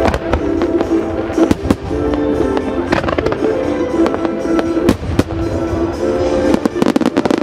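Aerial firework shells of a starmine barrage bursting with repeated sharp reports over music that plays with held notes. The reports come irregularly, with a quick cluster of them near the end.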